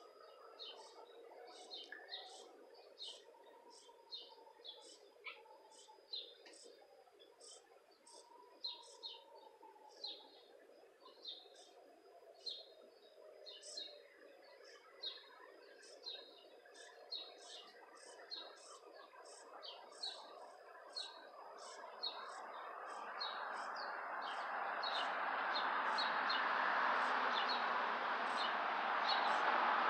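A bird repeating a short, high chirp steadily, a little more than once a second. About two-thirds of the way through, a hissing buzz swells up and becomes the loudest sound.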